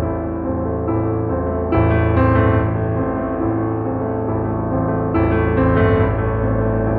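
Background piano music: slow, sustained chords over a steady low bass, with a new chord struck about two seconds in and again about five seconds in.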